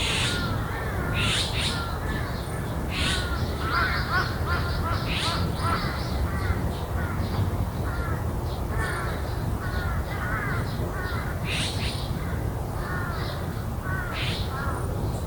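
Crows cawing again and again among other bird calls, over a steady low rumble.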